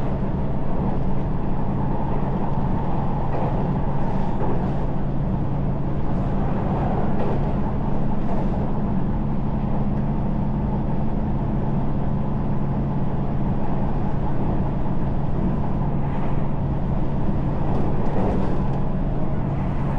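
Electric commuter train running at steady speed, heard from on board: a steady low hum with the rumble of wheels on the rails and a few faint clicks.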